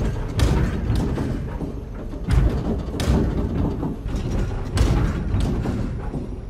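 A broken washing machine running with a steady low rumble and irregular heavy knocks and thumps, roughly one a second. The banging is the sign of the machine's fault.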